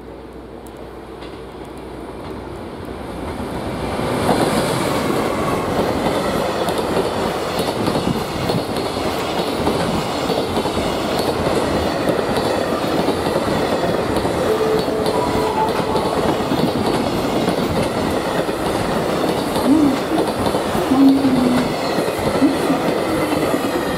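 Container freight train hauled by an EF510 electric locomotive passing through a station. The noise builds over the first four seconds as the locomotive comes up, then holds as a steady, loud rumble of wagon wheels on the rails while the long line of container wagons runs by.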